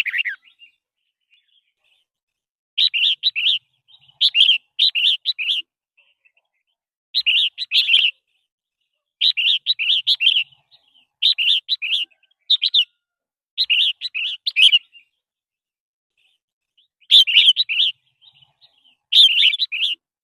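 Red-whiskered bulbul singing: short, bright warbled phrases, about a dozen of them, repeated every one to two seconds with silent gaps between.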